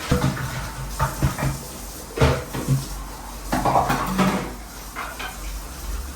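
Dishes and utensils being washed by hand, knocking and clinking against each other and the sink in an irregular series. The loudest knock comes about two seconds in, with a busy run of clatter a little past the middle.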